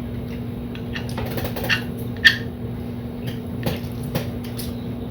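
Eating at a table: short clinks and clicks of cutlery on a plate and chewing sounds, the sharpest clink a little over two seconds in, over a steady low hum.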